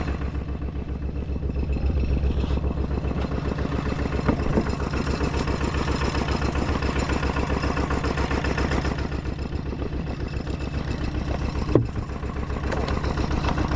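A small engine running steadily with an even, rapid throb. One sharp knock comes near the end.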